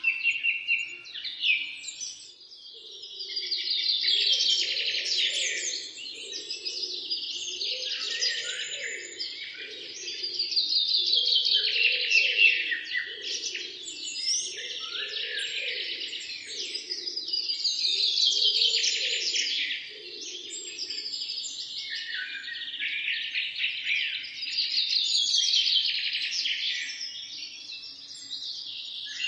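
Several songbirds chirping and singing together in a dense chorus, with loud trilled phrases swelling up about every seven seconds. A lower pulsing sound runs underneath for the first two-thirds.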